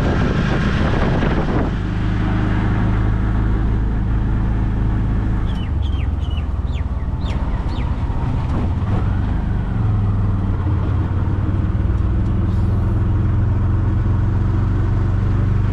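A tuk-tuk's engine running steadily while the vehicle is under way, with a constant low drone. A few short, high, falling chirps come through about six to seven seconds in.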